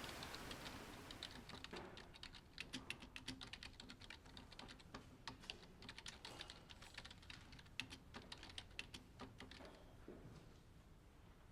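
Faint typing on a keyboard: quick, irregular keystrokes that stop near the end. A soft rain hiss fades out in the first couple of seconds.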